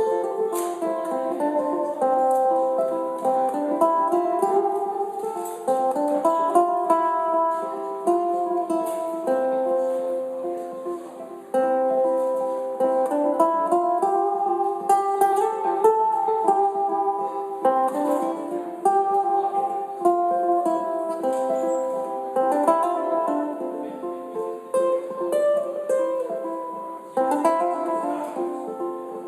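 Solo ukulele played through a loop pedal: a looped plucked pattern repeats while further melody lines are picked over it, with several lines of notes sounding at once. No singing.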